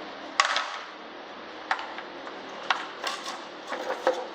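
A handful of sharp, irregular clicks and clacks of hard parts being handled and knocked together as small covers are fitted back onto a lawnmower.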